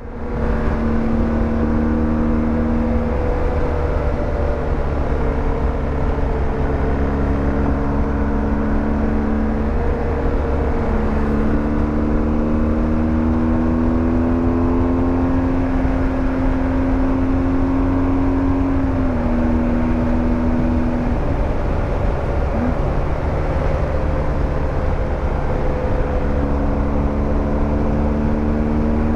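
Motorcycle engine running on the road with steady wind rush. The engine note holds, then shifts up or down in pitch several times through the stretch.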